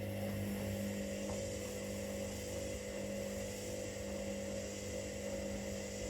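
Washing machines running mid-cycle: a steady motor hum with held tones over a hiss.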